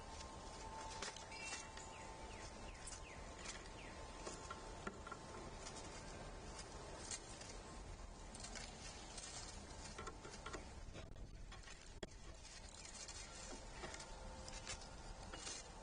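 Irregular small taps and clicks of animals feeding on a composite platform feeder, pecking and picking at seed, over a faint steady hum.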